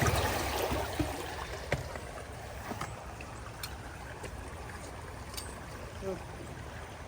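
Water rushing through a just-unclogged road culvert, louder in the first couple of seconds and then settling to a steady flow, with a few light knocks.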